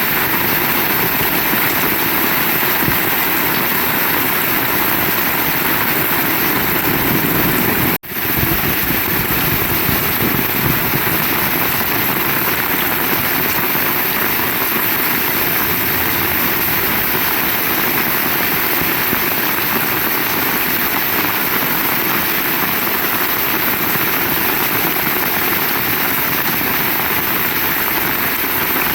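Heavy rain falling steadily, a dense even hiss that cuts out for an instant about eight seconds in.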